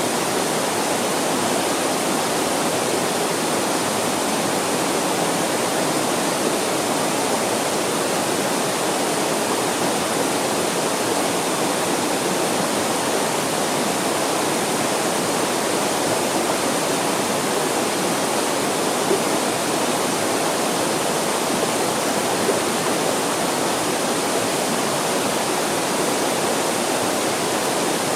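Mountain stream rushing, a steady, unbroken sound of fast-flowing water.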